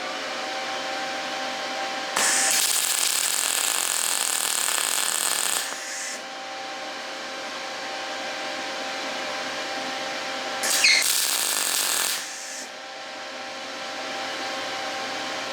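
A welder's steady hum, broken twice by the louder sizzle of arc welding: a stretch of about three seconds starting about two seconds in, and a shorter one of about a second and a half later on. Spots are being welded over pinholes in an exhaust pipe repair.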